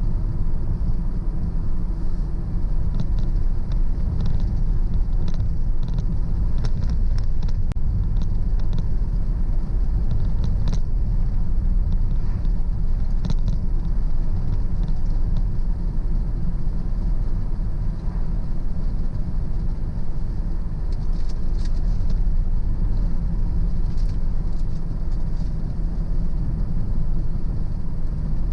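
A car driving at a steady pace, its engine and tyres making a steady low rumble, with a few faint ticks here and there.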